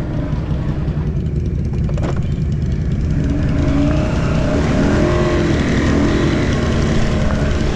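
ATV engine running with a steady low rumble, its pitch rising and falling as the throttle is worked.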